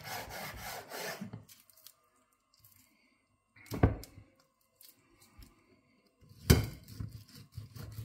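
Knife cutting raw chicken on a chopping board: scraping, sawing strokes, broken by two sharp knocks against the board, about four and six and a half seconds in.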